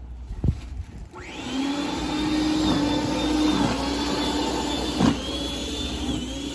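Snowblower motor spinning up about a second in, then running steadily with a high whine. Its pitch dips briefly several times as it takes load. A sharp knock comes near the start and another about five seconds in.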